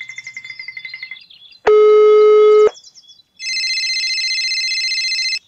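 Two steady electronic tones. First a loud, low buzz-like tone of about one second, then after a short gap a higher-pitched tone held for about two seconds that cuts off suddenly. Before them, a rhythmic music track fades out.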